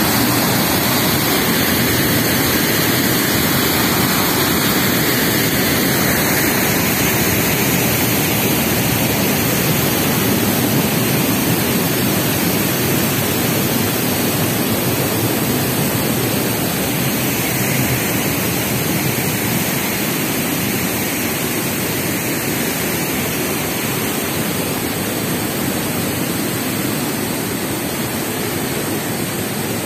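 Waterfall: a loud, steady rush of falling water that eases slightly toward the end.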